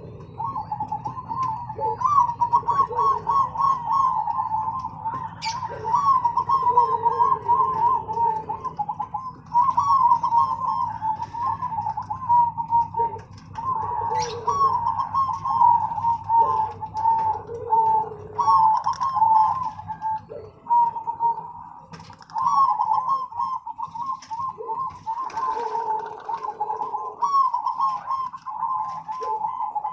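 Zebra doves (perkutut) cooing: phrases of quick, rolling coo notes repeated over and over with short gaps, and faint high chirps above them.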